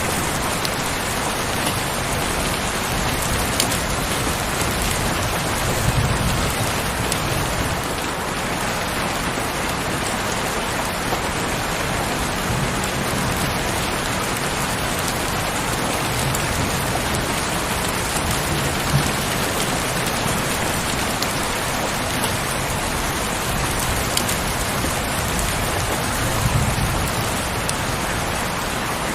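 Heavy rain falling steadily, a dense even hiss with a few sharper drop ticks and a couple of brief low swells.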